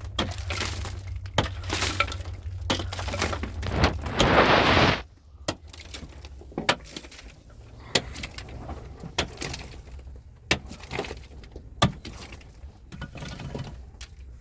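Hard objects being knocked and broken by hand: a run of sharp, separate knocks and cracks, with a loud, dense scraping rush lasting about a second around four seconds in.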